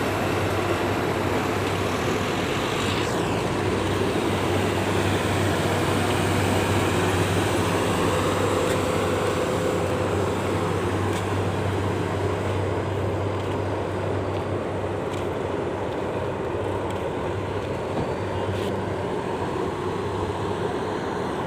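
Steady drone of heavy engines running with a constant low hum, over an even hiss of rain.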